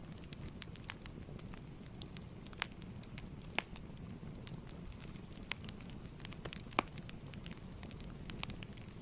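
Wood fire crackling in a fireplace: a steady low rumble of flames with scattered sharp pops, the loudest about three and a half and nearly seven seconds in.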